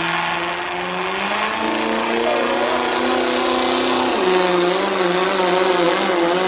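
Turbocharged diesel pickup truck's engine running hard under load while pulling a weight sled. Its pitch climbs, drops sharply about four seconds in, then climbs again.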